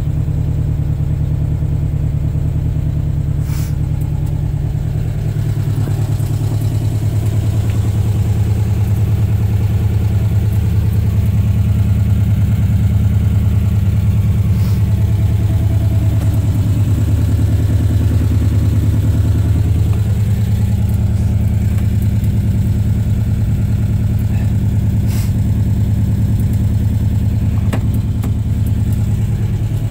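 1970 VW T2 campervan's 1600 air-cooled flat-four engine idling steadily, its speed drifting up and down slightly.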